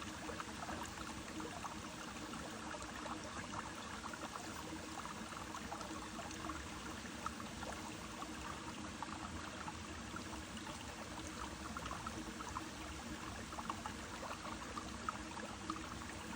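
Brook water flowing steadily, a continuous rush with fine small splashes throughout.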